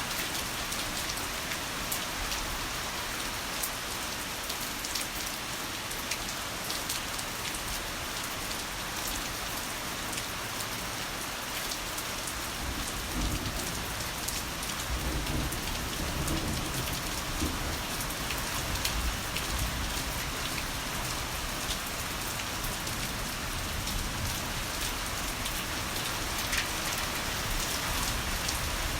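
Heavy rain falling steadily, with a low roll of thunder rumbling in about halfway through and dying away over several seconds.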